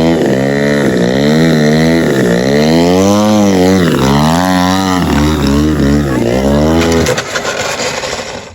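Model airplane engine of a Zivko Edge 540 RC plane running with its pitch swinging up and down every second or so, as the throttle is worked. It drops away about seven seconds in.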